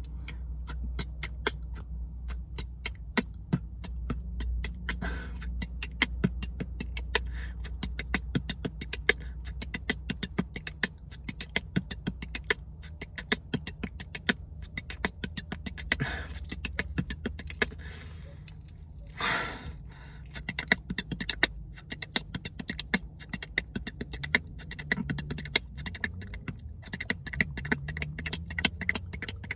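A person beatboxing, practising a fast combo of rapid clicks and percussive mouth sounds over and over, with a steady low hum underneath.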